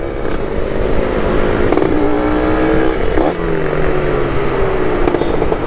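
Motorcycle engines running with road traffic. Engine pitch rises and then falls slowly over a couple of seconds, as a vehicle passes by.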